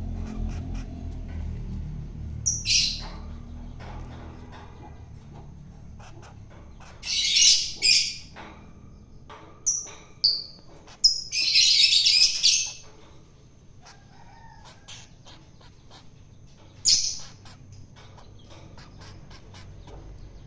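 Long-tailed shrike giving harsh, scratchy calls in separate bursts: short ones and two longer runs, about 7 and 11 seconds in. A low rumble fades out over the first few seconds.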